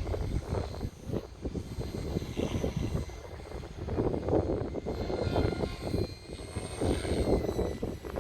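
Hirobo Lepton EX 500-class radio-controlled helicopter in flight: a steady high whine from its drive over rough rotor noise that swells and fades as it moves, loudest about halfway through and near the end.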